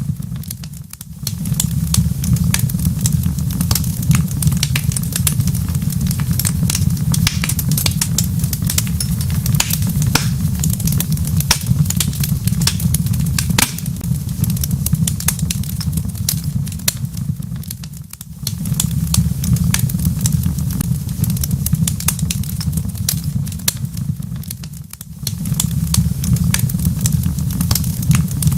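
Crackling wood fire: a dense stream of irregular small pops and snaps over a steady low rumble. The rumble drops away briefly three times, about a second in, around eighteen seconds and around twenty-five seconds.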